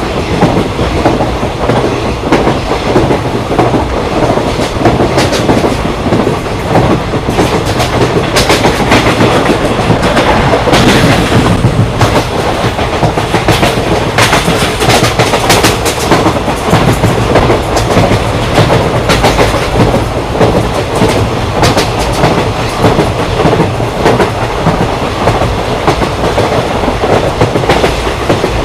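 Indian Railways express train running at speed, heard aboard: a steady loud rumble with repeated wheel clicks over rail joints, which come thicker for several seconds near the middle.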